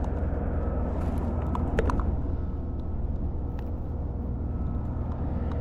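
Steady low outdoor rumble, with a few faint clicks and ticks about one to two seconds in.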